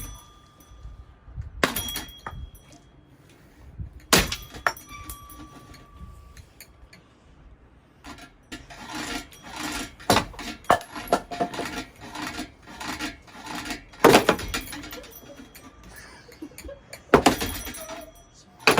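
A ceiling fan being smashed apart: four heavy crashing impacts, some leaving a brief metallic ring, with a stretch of rattling and clinking of loose metal and glass parts in the middle.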